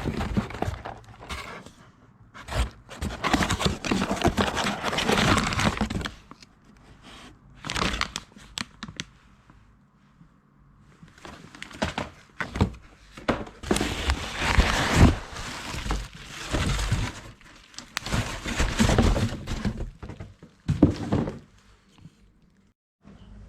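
Irregular crinkling, rustling and knocking from something being handled, in uneven bursts with short quiet gaps, fitting packaging being opened.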